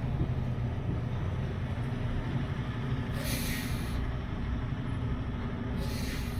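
Semi truck's diesel engine running steadily, heard from the cab, with two short hisses of air about three and six seconds in.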